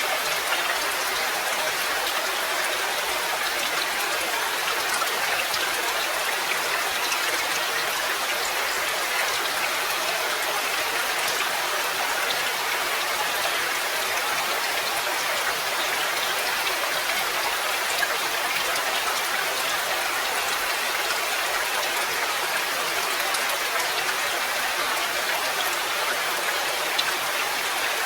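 Steady, even rainfall: a dense patter of raindrops that keeps on without a break, with scattered single drop ticks.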